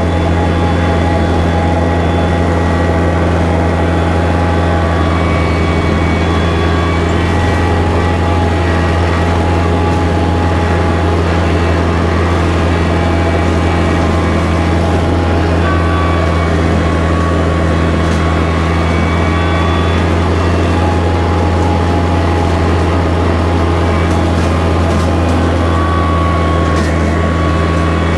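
Kubota tractor's engine running steadily at constant throttle while driving a bush hog rotary cutter through brush, a loud unchanging low hum.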